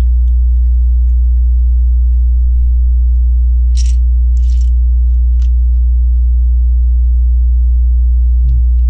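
Loud, steady low electrical hum with a stack of overtones, a mains hum on the recording. A couple of brief clicks and rustles near the middle come from Lego pieces being handled.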